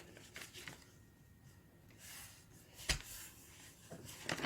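Sheet of A4 paper being folded and creased by hand: faint rustling with a sharp tap about three seconds in.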